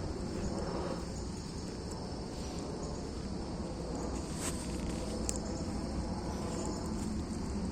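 Steady chorus of insects, with a low rumble underneath and a couple of faint sharp clicks about halfway through.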